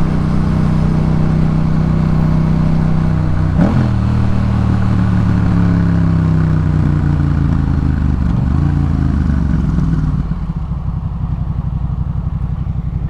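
Yamaha MT-07 parallel-twin engine through a Jeskap K4 full aftermarket exhaust, running under steady throttle with a brief break about three and a half seconds in. Its pitch then falls as the bike slows, and near the end it settles to a quieter, evenly pulsing low-rev run.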